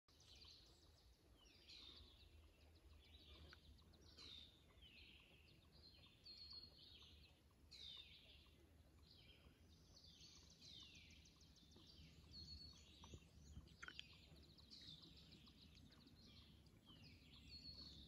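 Faint songbirds chirping and trilling, with short phrases overlapping every second or so, over a low steady rumble.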